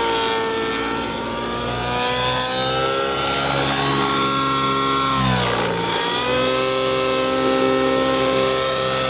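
Radio-controlled 3D helicopter's motor and rotor whining steadily, its pitch dropping sharply about five seconds in as the load comes on, then climbing back and holding.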